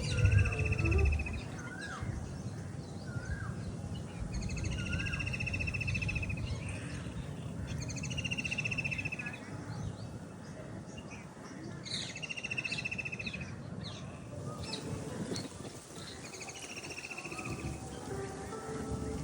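Songbirds singing: one bird repeats a buzzy, high trill about a second long roughly every four seconds, while short rising chirps come from another bird early on. A steady low rumble runs underneath.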